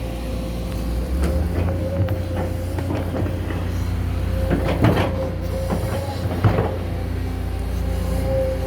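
Backhoe excavator's diesel engine running steadily with a constant whine over it, and a handful of sharp knocks and clanks as it works, the loudest about five seconds in.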